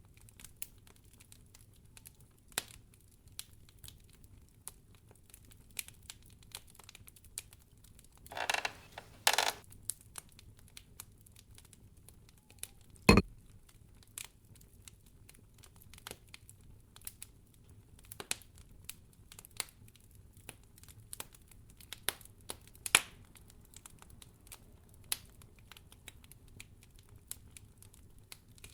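Wood fire crackling in a fireplace: sparse irregular snaps and ticks, with a short rustling burst about eight to nine seconds in and one loud sharp pop about halfway through.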